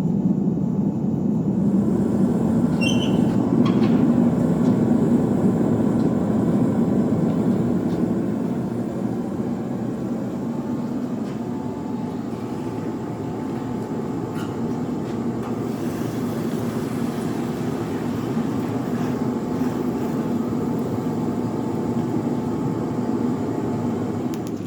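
Electric grinder running with a steady low rumble, a little louder for the first several seconds.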